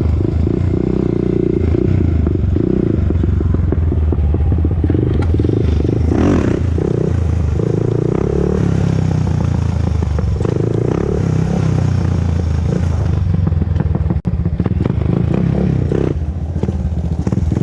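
Honda TRX400EX ATV's single-cylinder four-stroke engine running loud as the quad is ridden, its note shifting with the throttle.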